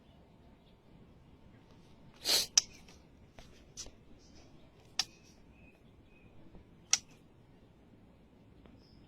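A white-rumped shama giving a short harsh rasp about two seconds in and a few sharp, widely spaced clicking calls, with some faint short chirps between them.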